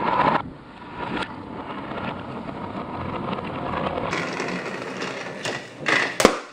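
Battery-powered Thomas toy train's motor running steadily along plastic track, with a few clicks as it goes. Near the end comes a sharp pop, a balloon burst by the thumbtack on the train's front.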